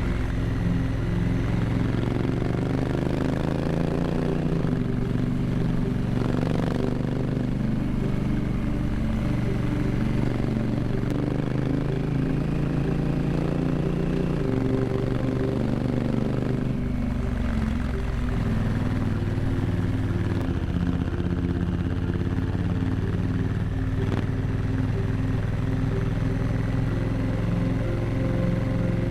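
Motorcycle engine running on the move, its note rising and dropping several times as it speeds up and shifts gears.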